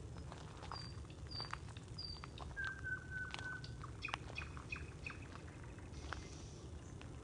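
Birds singing in a forest at night: three short high whistles in the first two seconds, then a held lower whistle lasting about a second, then a quick run of repeated notes, mixed with many short clicking calls over a steady low background hum.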